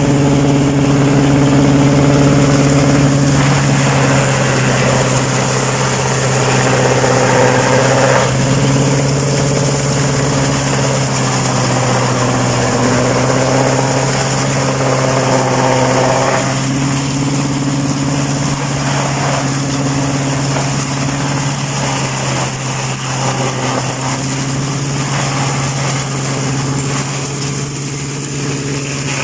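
Tractor engine running steadily with a constant low hum, driving a PTO forage harvester. The higher tones waver partway through, as the load on the machine changes.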